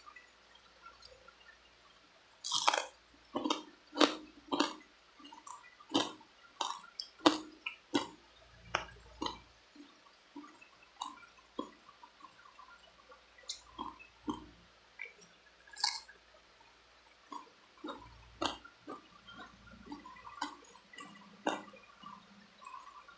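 Close-miked eating sounds of chewing spicy chicken feet: irregular wet smacks and crunchy clicks, starting about two and a half seconds in and coming several a second at times.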